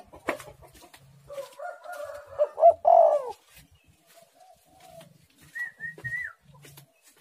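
Spotted dove cooing: a run of low, warbling coos from about a second in, loudest near three seconds, then a fainter coo near five seconds. A short, higher call comes near six seconds.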